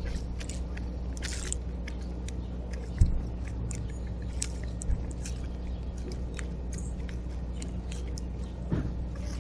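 Feeding at a backyard bird feeder: many short, sharp high ticks and chips, irregular and closely spaced, with a low thump about 3 seconds in and another about 5 seconds in, over a steady low hum.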